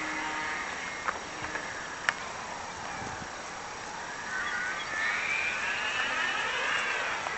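Electric motor and 9x9 propeller of a Multiplex Blizzard radio-control plane whining overhead. The whine comes in about four seconds in and rises in pitch, then falls away, as the motor winds up and eases off.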